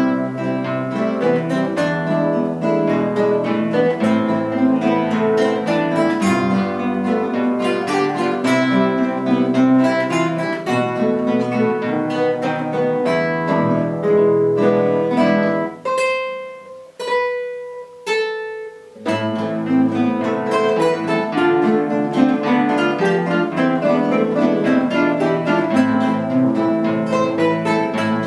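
Guitar ensemble playing an instrumental piece, many plucked notes over a moving bass line. About sixteen seconds in the group drops out for a few single ringing notes, then the full ensemble comes back in.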